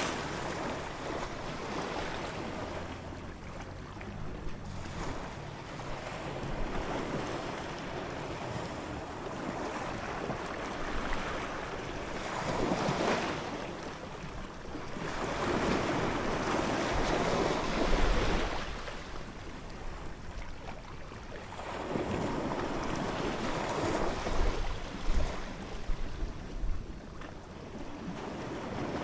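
Ocean surf: waves breaking and washing in, the rush of water swelling and ebbing every few seconds.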